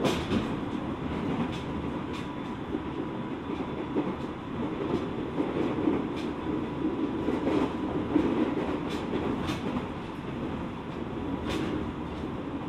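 Running sound inside a JR 701 series electric train (car KuMoHa 701-30) under way on the Ōu Main Line: a steady rumble of wheels on rail with scattered clicks as the wheels pass over rail joints, and a faint steady high tone.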